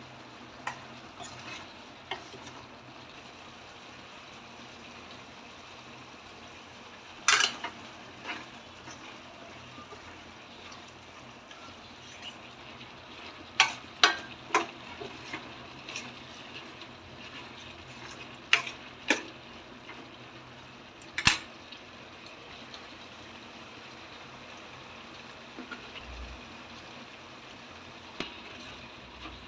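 Chicken gizzard curry frying in a pan with a steady low sizzle. A spoon scrapes and knocks against the pan now and then, loudest in a few sharp clacks around the middle.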